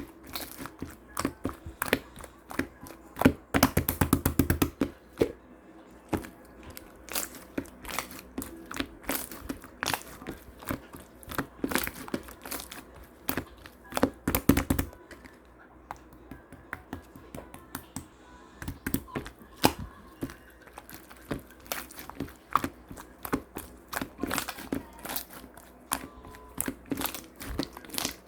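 Clear slime being worked by hand, giving many sharp clicks, pops and crackles, with a fast run of crackling clicks about three to four seconds in.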